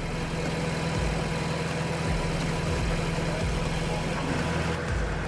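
Log splitter's engine running steadily.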